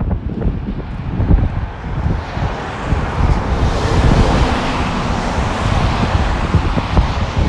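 Wind buffeting the microphone with a gusty rumble, while a vehicle passes on the wet road, its tyre hiss swelling about two seconds in and fading near the end.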